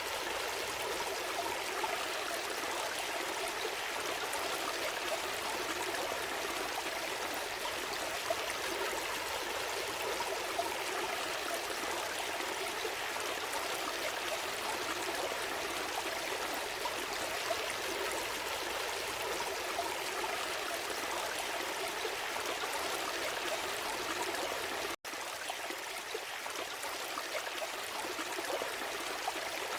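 A gentle stream flowing, a steady rushing and trickling of water with no let-up. It drops out for an instant about five seconds before the end, then resumes slightly softer.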